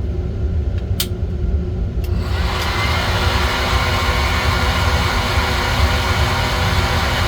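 Coffee-roasting heat source being switched on: two sharp clicks about a second apart over a low rumble, then a loud rushing hiss builds in and holds steady as heating of the green beans begins.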